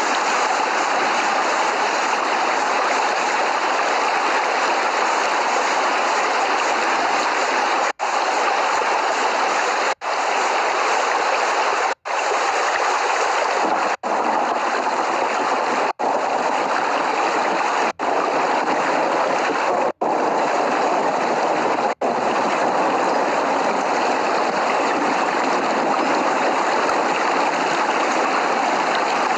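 Steady heavy rain, a constant even hiss of falling water with no thunder. In the middle stretch it cuts out for an instant every two seconds.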